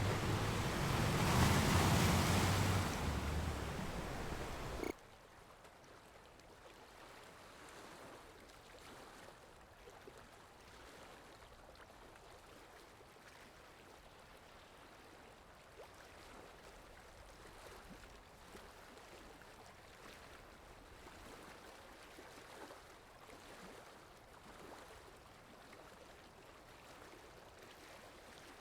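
Ocean waves: a loud rush of surf for about the first five seconds, then it cuts off suddenly to a much quieter, steady wash of water with faint small splashes.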